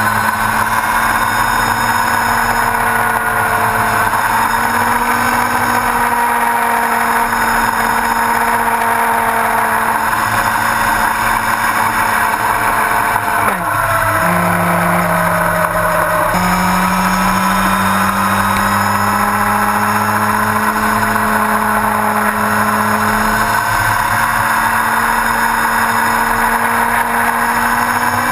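Yamaha R1's inline-four engine running at a steady cruising pace over wind and road noise, its note dipping about halfway through and picking up again a few seconds later.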